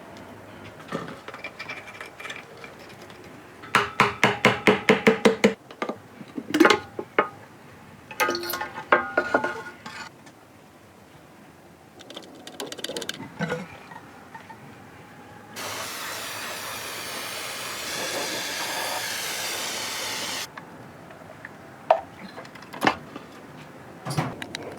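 Hard knocks and metallic clatter, with a rapid run of about nine sharp strikes, then a steady hiss that lasts about five seconds and cuts off suddenly, followed by a few more knocks.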